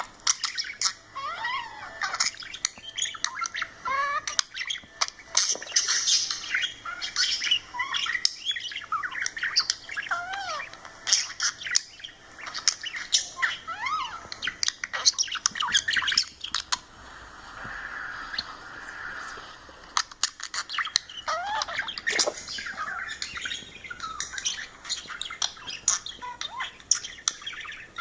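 Budgerigar chattering: a fast, busy run of chirps, clicks, squawks and short sliding whistles, with a softer scratchy warble about two-thirds of the way through.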